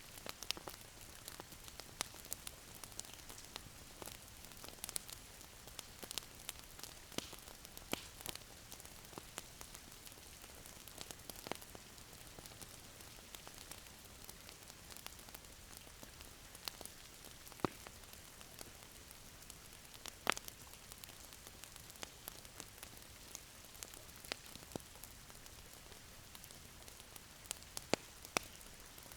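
Wood fire crackling in a fireplace: a steady soft hiss with irregular sharp pops and snaps, a louder pop about two-thirds of the way through and a few near the end.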